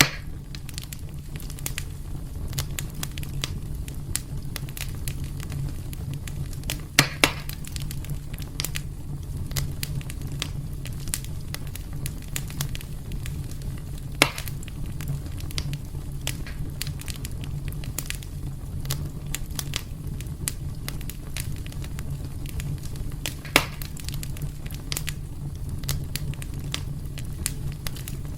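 Wood fire burning in a fireplace: a steady low rumble of flames under constant small crackles, with a few louder pops spread through.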